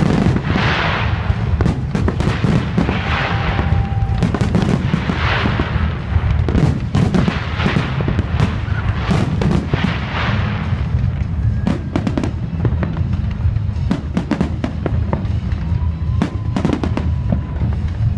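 Fireworks salute going off: many sharp bangs in quick succession. Crackling, hissing bursts come about every two seconds through the first ten seconds, then mostly separate bangs follow.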